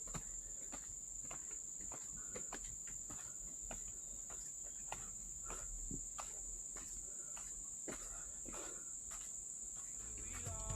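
Forest insects trilling in a steady, high-pitched drone, with scattered light clicks and knocks over it.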